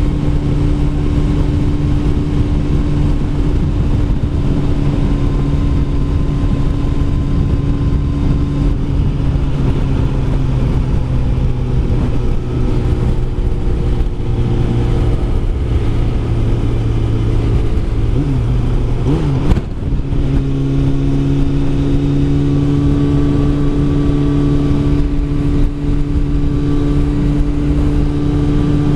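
Kawasaki ZZR600 inline-four engine running at a steady cruise under a rush of wind noise. About nine seconds in the engine note eases off, and around eighteen to twenty seconds it briefly dips and rises again before settling back to a steady note.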